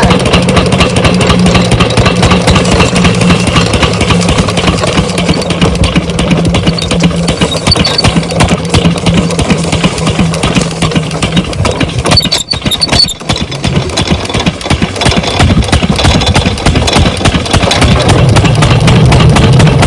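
A 12 hp diesel engine on an irrigation water pump set running steadily close by, with a brief dip in level about two-thirds of the way through and its low hum growing stronger near the end.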